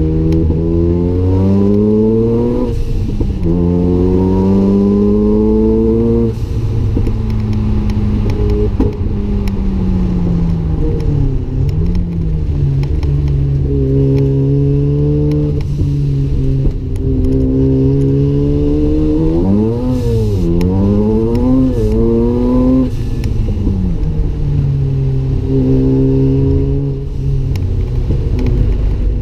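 Mazda RX-7's single-turbo rotary engine being driven hard on track, pitch climbing steadily under acceleration and dropping back at each upshift. Twice in the first six seconds it climbs and drops, then it falls away for several seconds as the car slows, and then it builds again, wavering up and down for a while before another pull near the end.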